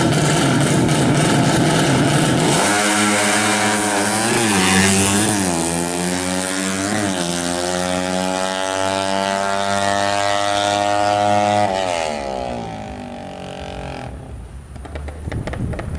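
Race-tuned 200 cc single-cylinder four-stroke Yamaha Jupiter Z (5TP) engine revving: rough running at first, then three quick throttle blips, a long held rev that climbs slowly, and the revs dropping away near the end.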